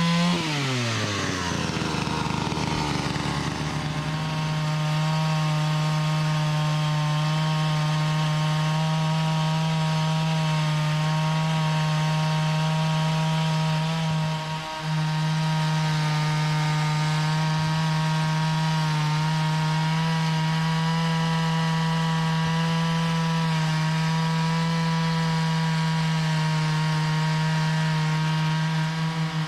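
Gas-engine saw running at high, steady revs while cutting wood. Its pitch drops over the first few seconds as it settles under load, and there is a brief dip about fifteen seconds in.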